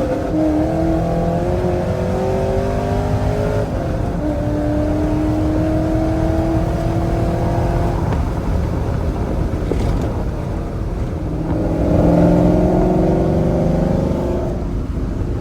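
A 2005 GMC Sierra's engine pulls under load as the manual truck is driven. Its pitch climbs slowly and drops back at each gear change.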